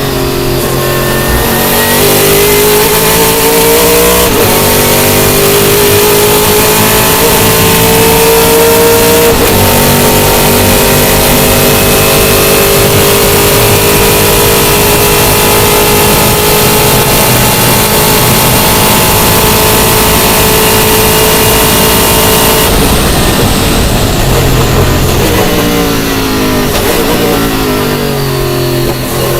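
Sauber Mercedes C11 Group C race car's twin-turbo V8 and straight-cut gearbox at full power. It pulls up through three upshifts in the first ten seconds and holds high revs. About 23 seconds in it lifts off and downshifts repeatedly with blips of revs.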